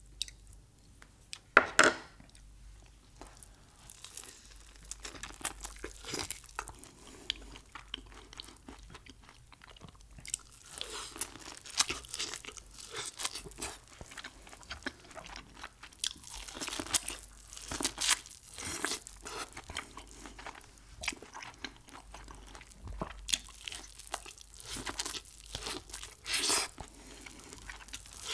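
Close-miked eating of Mexican food: repeated crunching bites and chewing, the loudest a sharp crunch about two seconds in.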